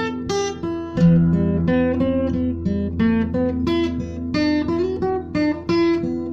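Instrumental acoustic guitar music: a quick run of picked notes over a steady low bass.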